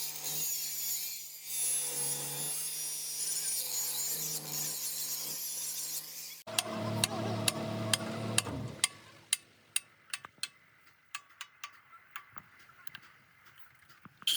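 A power tool runs steadily on metal with a hum and a high hiss. After an abrupt change about six seconds in, a heavier low sound lasts about two seconds, followed by a run of sharp, irregular metal knocks like hammer blows.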